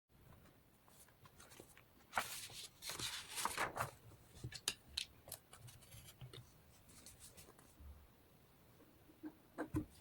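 Close-up sounds of paper collage materials being handled for a journal page: a dense rustling and crinkling of paper for a couple of seconds, then scattered sharp clicks and taps, with a few soft knocks near the end.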